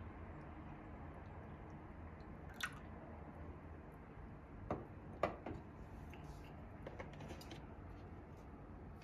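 A few short, sharp clicks and knocks over a low steady background hum, the loudest a little after halfway.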